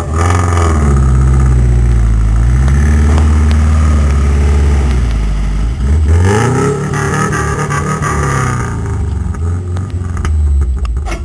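Subaru Brumby's flat-four engine revving under load with the ute's wheels sunk in deep mud: the revs climb and hold high for about five seconds, drop away, then climb again and ease off near the end.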